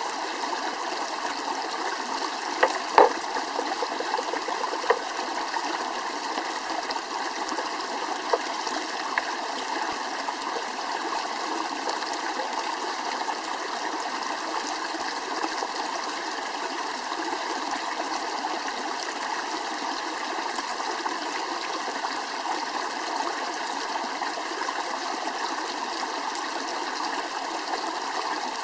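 Steady rush of flowing water, like a stream, with a few sharp clicks or knocks in the first ten seconds.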